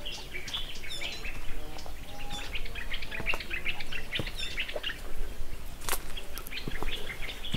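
Many small birds chirping and twittering together in quick, overlapping short chirps, with a sharp knock about six seconds in.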